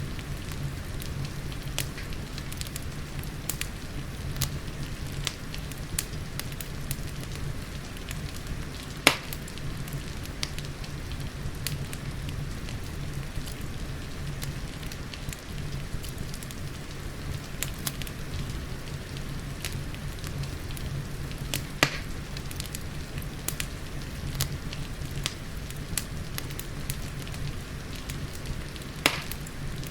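Wood fire crackling with frequent sharp pops over a steady bed of rain, three pops standing out much louder than the rest.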